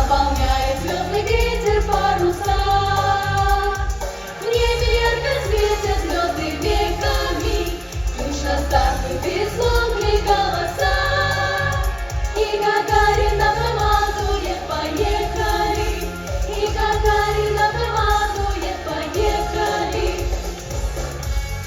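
Young vocal ensemble singing the song over instrumental accompaniment with a strong bass line.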